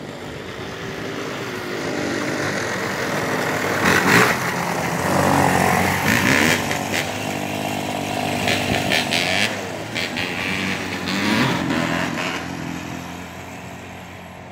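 Dirt bikes and a four-wheeler riding past with their engines revving up and down. The sound grows louder for the first few seconds, holds, then fades toward the end as they move away.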